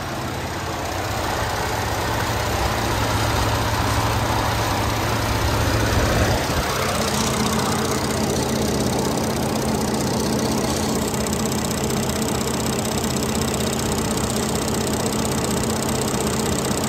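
Ford 3.5 EcoBoost twin-turbo V6 idling steadily, heard close up in the engine bay. Its tone shifts about seven seconds in as the listening point moves toward the back of the engine.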